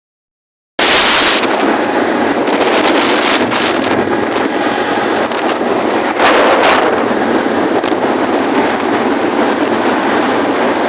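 Steady rush of wind buffeting the microphone while a Honda Tornado 250 motorcycle cruises at speed, mixed with its engine running. It starts abruptly just under a second in, with a louder gust about six seconds in.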